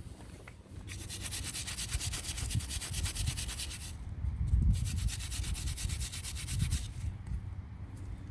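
Rapid back-and-forth scrubbing of brake hardware with an abrasive or brush, metal being cleaned in two spells with a short pause about four seconds in.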